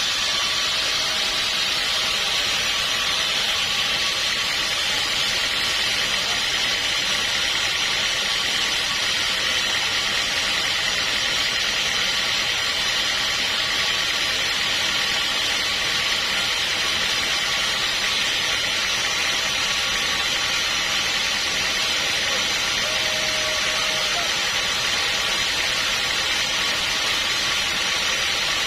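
Sawmill machinery running steadily: a continuous, even mechanical noise with a strong high hiss and no breaks.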